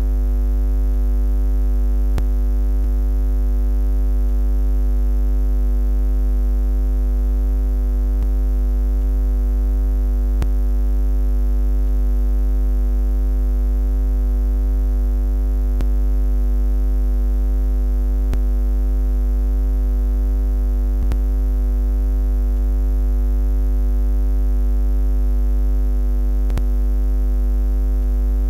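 Low electric-style buzz: a steady, unchanging hum with a deep bass drone under a stack of fixed higher tones.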